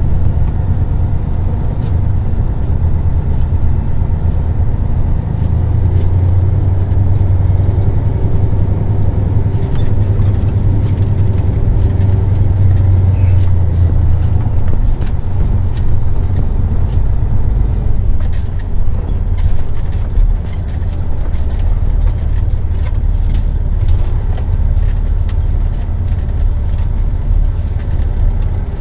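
Semi-truck diesel engine running at low speed, a steady low rumble heard from inside the cab, strongest in the first half, with small ticks and rattles from about ten seconds in.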